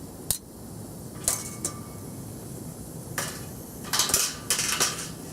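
Metal clattering: a few sharp clanks, one of them ringing briefly, then a quicker run of rattling knocks near the end.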